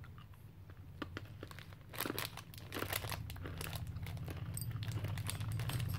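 Crunchy pizza-flavoured Arnott's Shapes cracker being chewed close to the microphone: a run of irregular crisp crunches that grow denser and louder, over a low steady hum.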